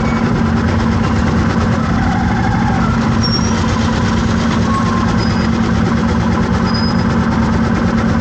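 Vehicle engine running steadily with a constant low drone, with a few brief faint high chirps over it.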